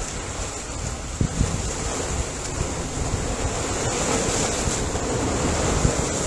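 Ocean waves washing onto shore, a steady rushing surf that swells a little in the second half, with wind buffeting the microphone in low thumps.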